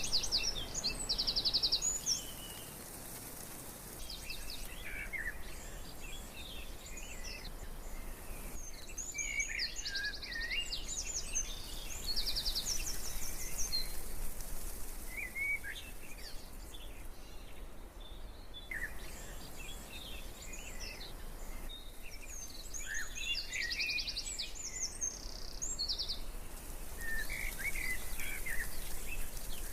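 Several birds calling and chirping throughout, with some rapid trills, over a steady background of wind noise.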